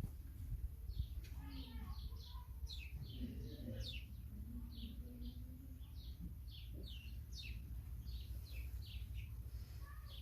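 Small birds chirping, a rapid run of short, high chirps that fall in pitch, over a steady low rumble.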